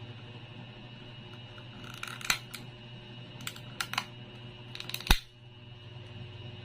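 Several short, sharp clicks in small clusters over a steady low hum; the loudest click comes about five seconds in.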